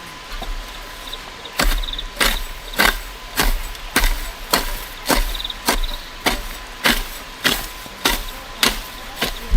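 A steady series of sharp strikes from a hand tool hitting something solid, about one every 0.6 seconds, starting about a second and a half in.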